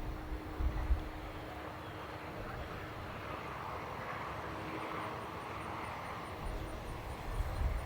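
A distant airplane passing, its engine noise swelling toward the middle and then fading, with a couple of low rumbles about a second in.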